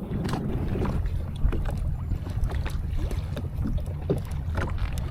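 Jet ski engine running at low idle on the water, a steady low rumble, with wind buffeting the microphone and a few small knocks.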